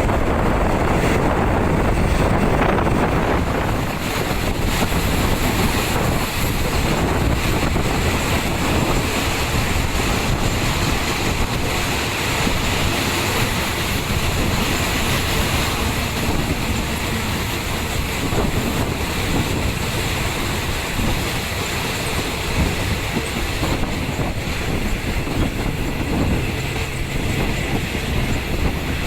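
Passenger train running at speed, heard from inside a third-class coach: a steady rumble of wheels on the rails with clatter from the carriage.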